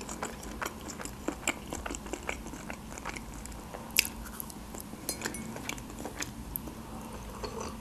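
A person eating, with many small wet chewing clicks and smacks. There is a sharper click about four seconds in as a marshmallow is bitten.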